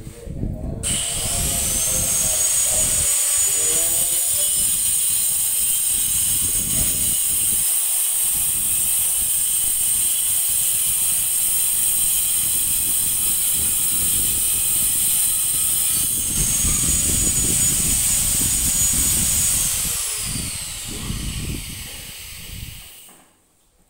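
A high-pitched motor whine that winds up about a second in, runs steadily, and winds down in a falling glide near the end.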